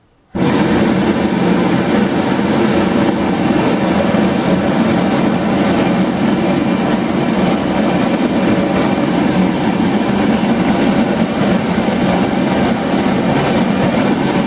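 Gas burner of a scrap-cylinder metal-melting furnace running at full flame: a loud, steady rush of burning gas that starts suddenly about half a second in and holds without change.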